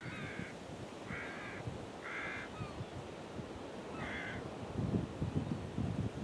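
A bird calling four times, short calls spaced about a second apart with a longer gap before the last, then gusty wind rumbling on the microphone near the end.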